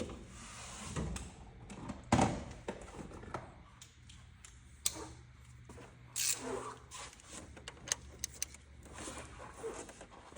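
Irregular clinks, clicks and knocks of tools and metal parts being handled during engine work, the loudest knock about two seconds in and another about six seconds in, over a steady low hum.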